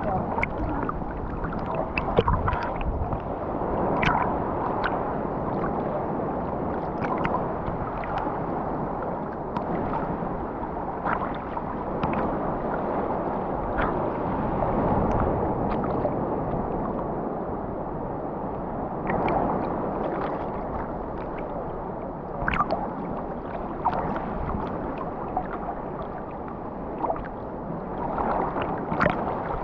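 Seawater sloshing and splashing in the surf: a steady rush of moving water with many short splashes and slaps.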